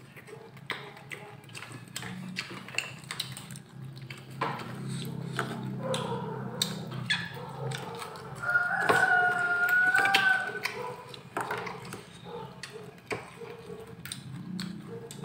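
Eating by hand: chewing and crunching of fried dried fish, with scattered small clicks and a steady low hum. About halfway through, a rooster crows once in the background, the loudest sound.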